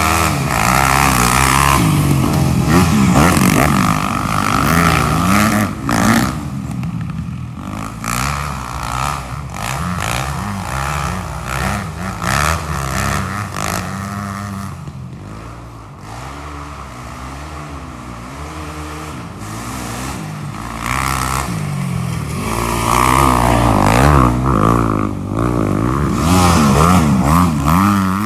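Off-road engines from a dirt bike and quad revving hard, the pitch climbing and dropping again and again as they accelerate and shift. The sound eases off somewhat midway and is loud again near the end.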